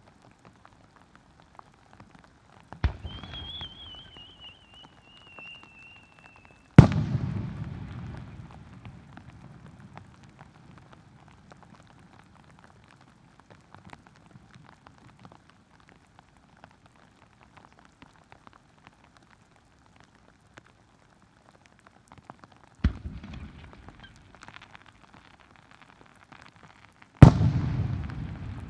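Two aerial firework shells, each launched with a thump and bursting loudly a few seconds later with a long rumbling echo. The first climbs with a whistle that falls slightly in pitch. Steady heavy rain patters between the shots.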